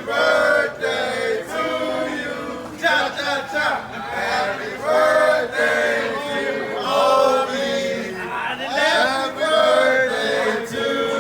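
Male voices singing together, with a chant-like melody.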